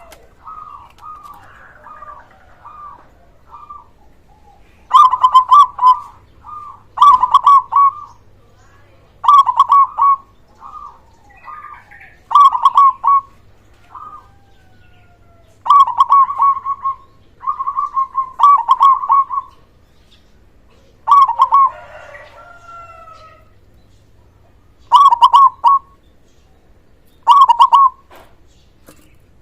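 Zebra dove (perkutut) singing its cooing song: short, loud, staccato coo phrases repeated every two or three seconds, with softer cooing in the first few seconds.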